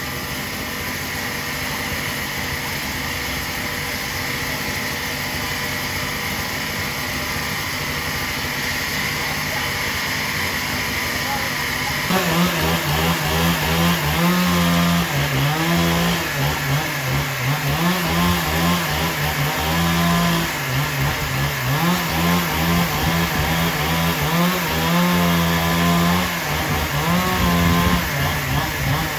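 A steady machine hum, then about twelve seconds in a chainsaw gets louder, its engine pitch rising and falling again and again as it is revved and eased through the cut.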